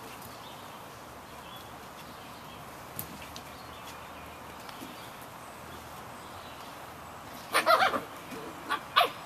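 Samoyed puppies yapping: a burst of high yips about three-quarters of the way in, then two more short yaps near the end.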